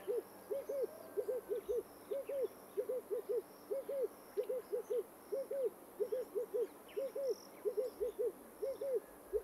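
A bird calling with low hooting notes in quick twos and threes, repeated steadily, with faint high chirps of small birds above.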